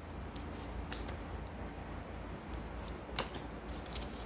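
Tarot cards being shuffled and handled: faint, scattered light clicks and flicks of card edges, with a couple of sharper snaps about a second in and again past the three-second mark.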